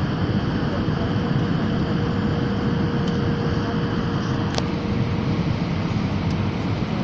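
Steady roar of airliner cabin noise in flight, engines and airflow, with a faint steady hum. One sharp click a little past halfway.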